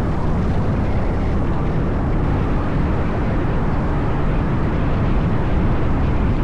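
Steady engine drone and wind rush of a Honda Forza 750 maxi-scooter being ridden at speed, a constant low rumble with no change in pace.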